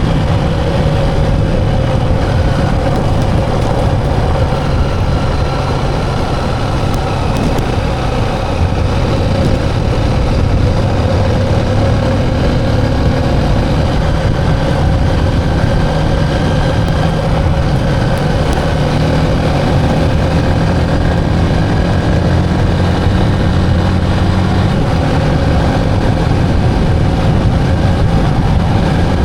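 Motorcycle engine running at a steady speed while riding, with road and wind noise and no clear revving.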